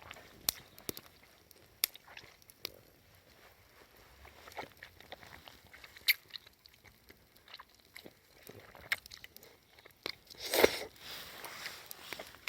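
A person chewing and biting crunchy food close to the microphone: scattered sharp crunches and clicks, with a louder noisy crunch near the end.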